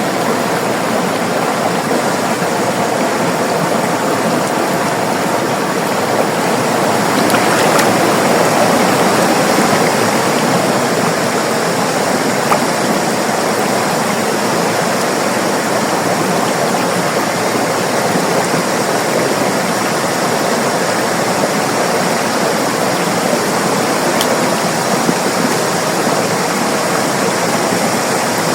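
River water rushing and gurgling over rocks in a steady, even rush, swelling slightly about a quarter of the way in.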